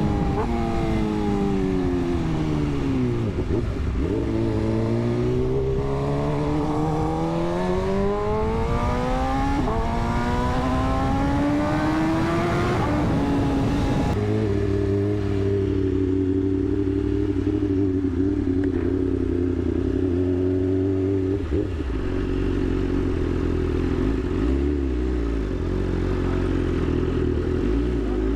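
Superbike engine from the rider's own motorcycle: the engine note falls for a few seconds, then rises steadily for about nine seconds as the bike accelerates hard, with wind rush. About halfway through it switches suddenly to a steady, even engine note with much less wind.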